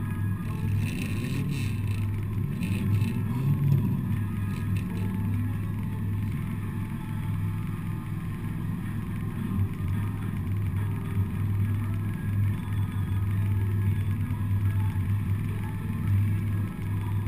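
Four-cylinder demolition derby car's engine running, heard from inside the car as a steady low drone. Scattered knocks and rattles come in the first few seconds.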